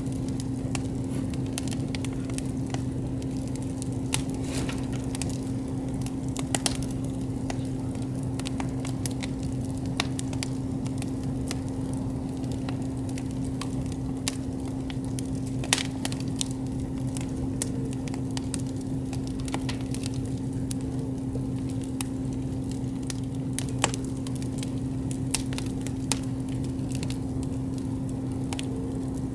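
Wood campfire crackling, with frequent small snaps and a few sharper pops scattered through, over a steady low hum.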